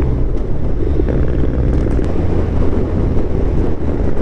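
Steady wind rush over the rider's microphone at highway speed, over the low, even drone of a 2021 Suzuki Hayabusa's inline-four engine through an Akrapovič full-system exhaust, held at a steady cruise.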